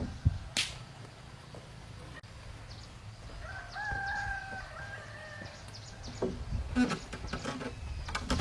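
A rooster crows once, one drawn-out call of about two seconds starting a few seconds in. A run of sharp knocks and clicks follows near the end.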